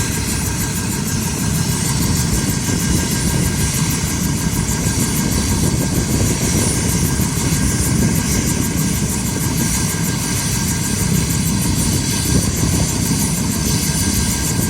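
Helicopter running, a steady turbine whine over dense engine and rotor noise.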